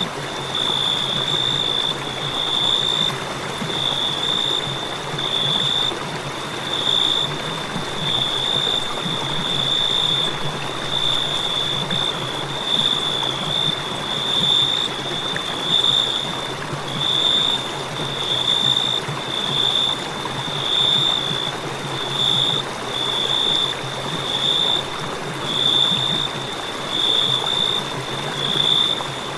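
Crickets chirping in a continuous high trill that swells and fades about every second and a half, over a soft even hiss.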